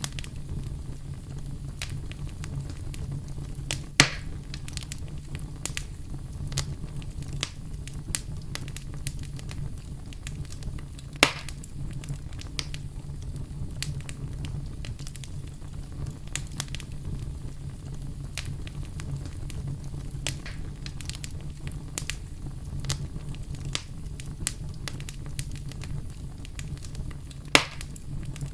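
Wood fire crackling steadily with many small snaps over a low rumble, and three sharp, louder pops: about four seconds in, about eleven seconds in, and near the end.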